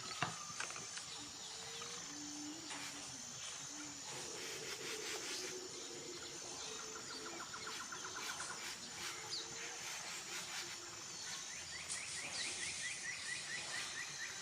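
Layered bird and nature ambience: several birds calling, with high thin whistles, rapid trills and a run of repeated chirps near the end, over scattered light clicks.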